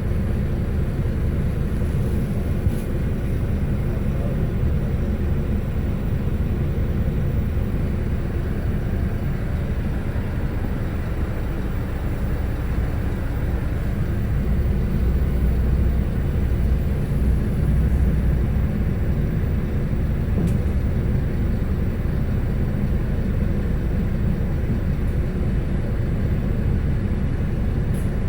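Scania K320HB bus's five-cylinder diesel engine running steadily while the bus is under way, with road noise, heard from inside the cabin. The low drone swells a little about fifteen seconds in.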